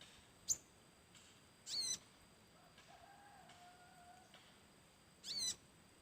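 A small bird, known locally as the sogok ontok, giving three short, high-pitched calls. A brief sharp chirp comes about half a second in, then two slightly longer, sweeping chirps about two seconds in and near the end.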